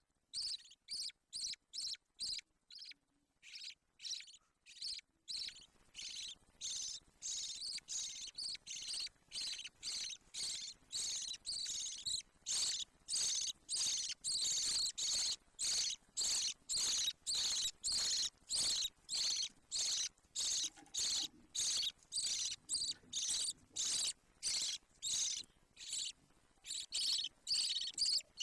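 Budgie chick calling in a rapid, regular string of short high cheeps, about two to three a second, sparse at first and becoming steady and louder about five seconds in.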